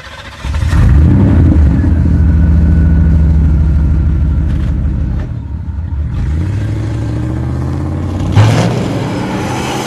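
Car engine running and revving: a low, steady drone that kicks in about half a second in, then rising sweeps in pitch as it accelerates, with a sharp loud burst near the end.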